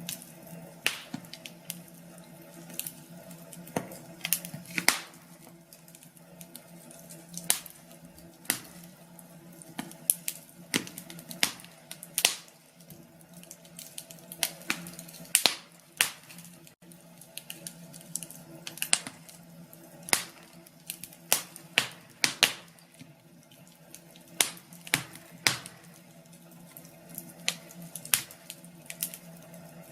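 Wood fire crackling in a fireplace: irregular sharp pops and snaps, about one or two loud ones a second with softer crackles between, over a faint steady low hum.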